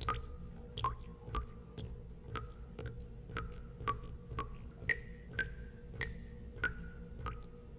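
Water drops falling into water, each a sharp plink with a short ringing tone whose pitch varies from drop to drop, about two drops a second, over a low steady hum.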